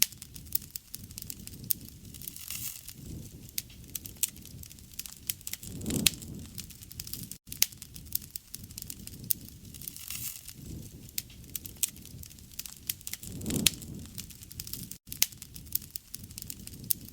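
Wood fire burning with dense crackling: many sharp snaps and pops. Under them runs a steady low rush that swells every four seconds or so.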